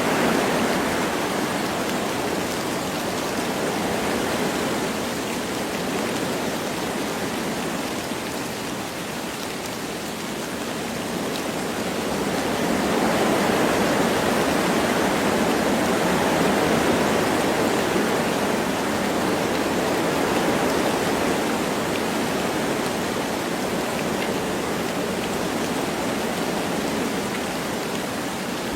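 Wind blowing through forest trees with light rain falling, a steady rushing that eases off and then swells into a stronger gust about halfway through.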